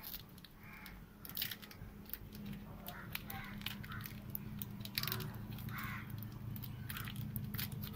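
Plastic packets of M-Seal epoxy putty being handled and crinkled, a run of short sharp crackles, over a low steady hum.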